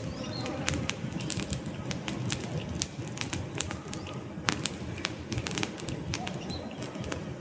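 Wood fire in a fireplace crackling: irregular sharp pops and snaps from burning logs over a low, steady rush of flames.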